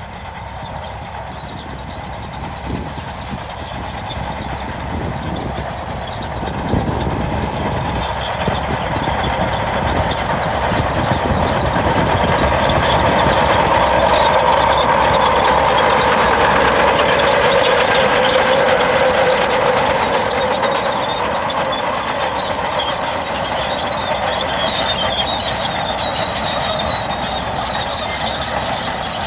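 Heavy earthmoving machinery running at work, a steady diesel engine sound that grows louder toward the middle and then eases off a little, with a faint high squeal in the later part.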